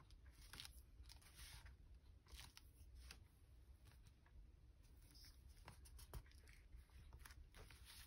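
Near silence: faint rustles and light taps of paper being handled, over low room hum.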